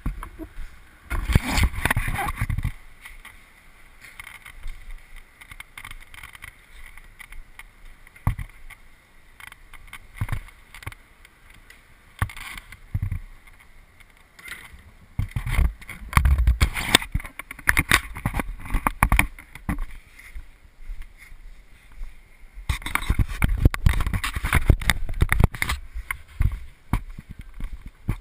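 Wind buffeting the camera microphone in irregular gusts: a low rumble about a second in, again after the middle, and for a longer stretch near the end, with quieter stretches between.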